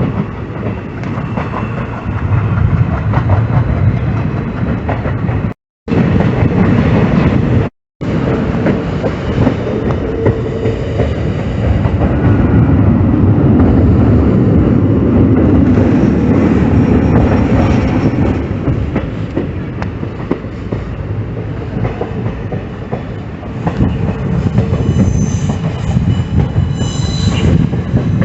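Train running on the track, its wheels clattering over the rails in a continuous loud rumble, with a high wheel squeal near the end. The sound cuts out twice, very briefly, a few seconds in.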